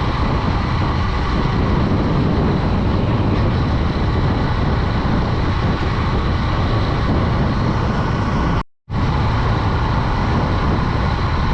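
Steady wind rush on the microphone and road noise from a moving Honda Dream 110 commuter motorcycle, with the sound cutting out completely for a moment about nine seconds in.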